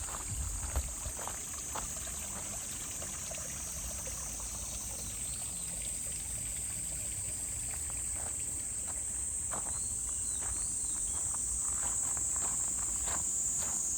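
A steady, high-pitched chorus of summer insects drones throughout. Footsteps on the path make light, irregular ticks underneath, with a couple of faint bird chirps.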